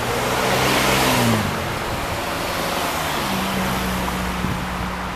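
A car passes close by. Its tyre and engine noise swells to a peak about a second in, and the engine pitch drops as it goes past. A steady low engine hum follows, over wind noise.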